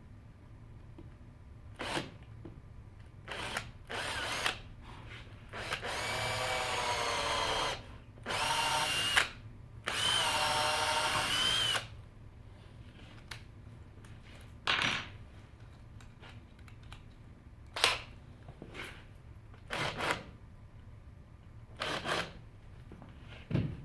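Power drill run in three longer bursts with a whining motor pitch, between many brief trigger pulls.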